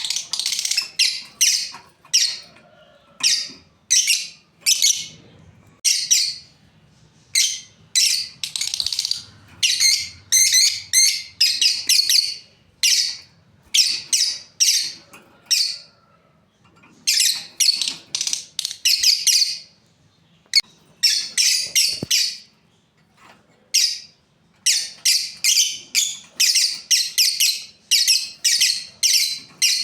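Lovebirds calling: short, sharp, high-pitched chirps in irregular bouts with brief pauses, ending in a fast run of repeated chirps, about three a second.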